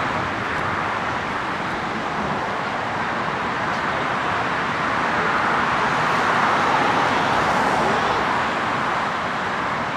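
Jet engine noise of a Boeing 757-200 freighter, a steady rushing that swells to its loudest about two-thirds of the way through and eases slightly toward the end.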